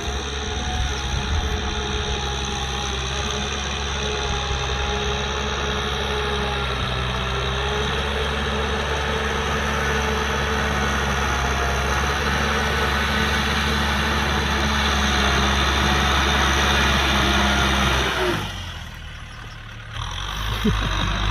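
Kubota M6040SU tractor's diesel engine running steadily under work. About eighteen seconds in it drops away sharply for a second or two, then comes back.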